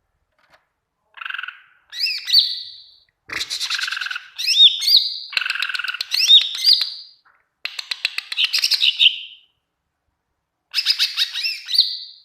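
Green leafbird (cucak ijo) singing energetically in five phrases separated by short silent pauses, the longest about four seconds. Clear whistled notes sweep up and down, mixed with rapid chattering trills.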